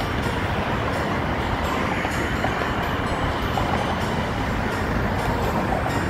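A train running past on the track: a steady rumble with rail noise and faint squealing.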